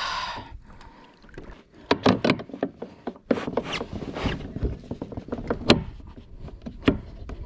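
Pedal-drive kayak setting off across the water: water noise along the hull with a run of irregular knocks and clunks.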